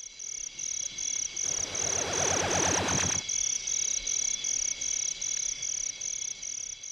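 Crickets chirping in an even rhythm, about two to three chirps a second, with a louder rough rasping sound for a couple of seconds in the middle.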